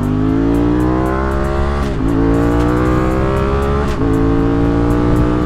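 Kawasaki motorcycle engine accelerating through the gears. Its pitch climbs, drops briefly at an upshift about two seconds in, climbs again, and drops at a second upshift about four seconds in.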